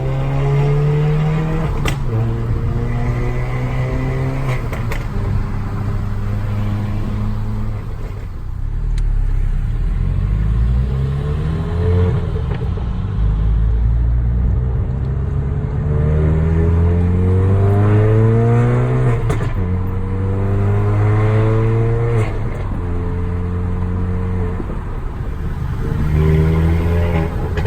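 Tuned Volkswagen Mk7 Golf GTI's turbocharged 2.0-litre four-cylinder engine, with a Clubsport muffler, resonator delete and APR downpipe, accelerating repeatedly through the gears of its six-speed manual. Pitch rises and drops at each shift, with a few sharp exhaust pops when the throttle is lifted, from a tune set up for pops and crackles.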